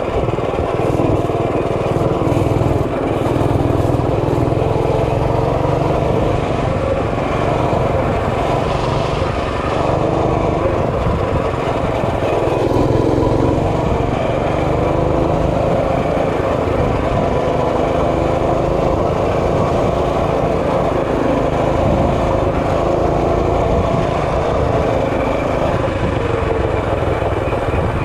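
Mini bike's small engine running steadily under way, its pitch wavering a little with the throttle, over a low rumble.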